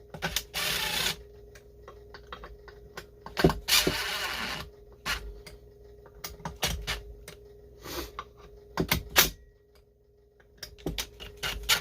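Scattered clicks and clatter of hand tools and small metal parts as the muffler screws on a STIHL 026 chainsaw are snugged up. There are two short noisy bursts, near the start and about four seconds in, over a steady hum.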